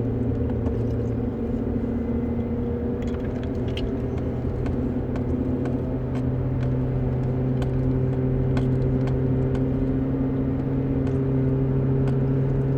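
A steady low mechanical hum holding several unchanging pitches, with a few faint clicks.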